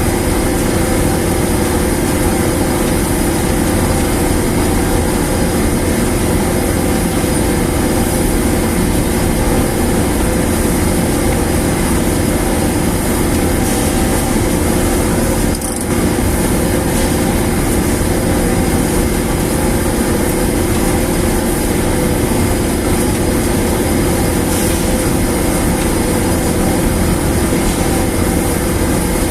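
A newly installed dryer machine running steadily: a constant loud mechanical drone with several steady tones on top, dipping only for a moment about halfway through.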